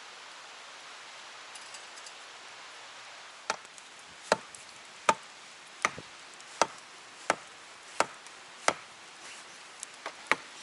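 Steady hiss, then from about a third of the way in a run of sharp chopping blows: eight evenly spaced strokes about three-quarters of a second apart, followed by a few lighter knocks near the end.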